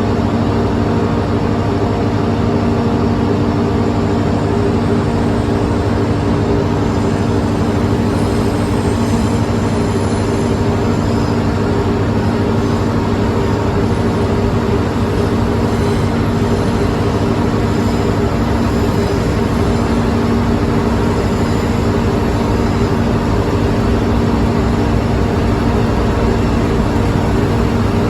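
Class 50 diesel locomotive's English Electric V16 engine running at a steady note, with an even hum and a haze of mechanical noise and no changes in pitch or level.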